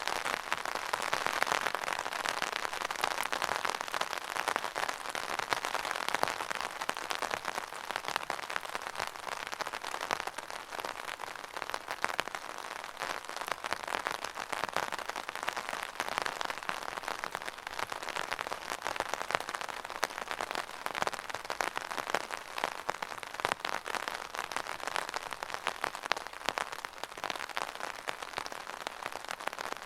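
Steady rain pattering on a hard surface, a dense crackle of many small drops.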